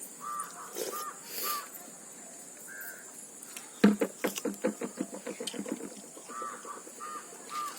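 Birds chirping in short repeated calls. About four seconds in, a sharp knock is followed by a run of quick clicks that speed up and fade.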